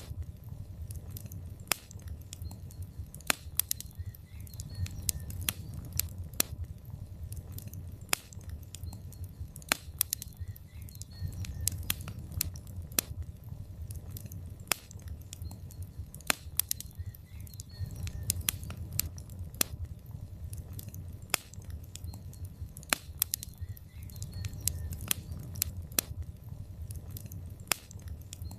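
Logs burning in a fireplace: many sharp, irregular crackles and pops from the burning wood over a low, steady rumble of the flames.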